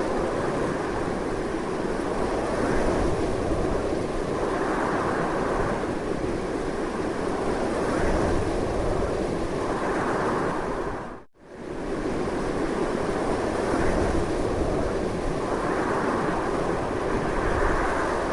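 Strong wind blowing continuously, a dense rushing noise that swells and eases every couple of seconds. It cuts out for a moment about eleven seconds in, then resumes.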